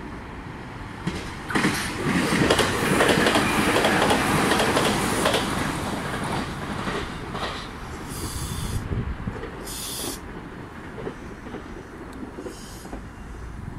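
Meitetsu Panorama Super electric train pulling away and rolling slowly past, its wheels clattering over the points and rail joints. The clatter is loudest early on and then eases, with a few short high-pitched squeals in the second half.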